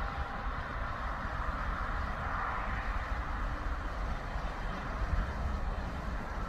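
Train running with a steady rumble and rolling noise.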